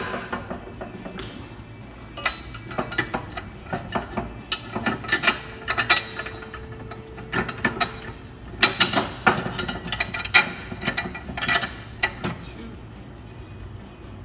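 Metal hitch parts and hardware clinking and clanking as they are handled and fitted together, in irregular bursts of sharp knocks.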